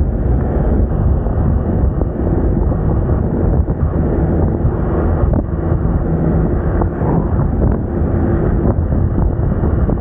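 Wind buffeting the microphone on a moving Moda Moca 110 scooter, with the scooter's small engine running steadily underneath.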